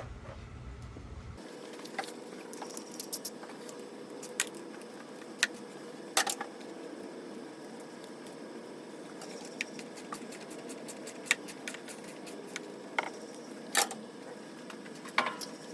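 Irregular light clicks and small rattles of hand work on the engine's wiring harness and its plastic connectors, over a steady background hum.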